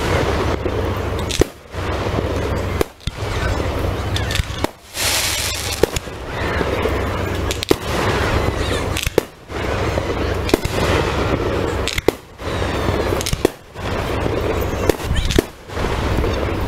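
Fireworks display going off at close range: a near-continuous run of bangs and crackle, with brief lulls every second or two.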